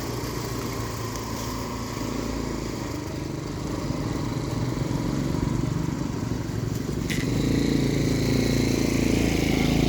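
Motorcycle engine running steadily, growing louder about seven seconds in.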